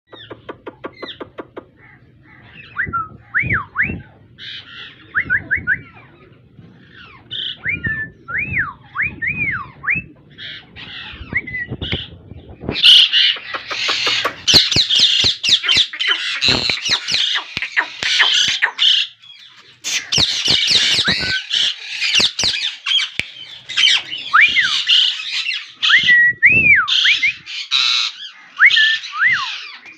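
Male plum-headed parakeet calling: short looping whistles in small groups at first, then from about thirteen seconds in a loud, continuous run of shrill squawks and chatter, broken once briefly.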